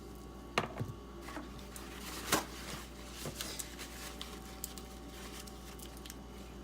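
A knife being worked on a leather strop: soft rubbing strokes and a few light clicks and knocks of the blade and strop being handled, the loudest knock about two seconds in. A steady low mains hum runs underneath.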